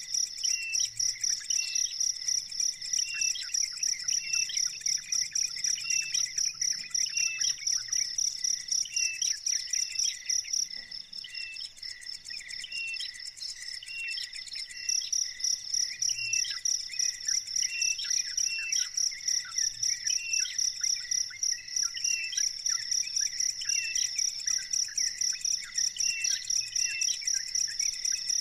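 A cricket chirping in a steady, rapid, even pulse, breaking off for a few seconds about eleven seconds in and then resuming. A bird gives short chirps over it, repeated every second or so.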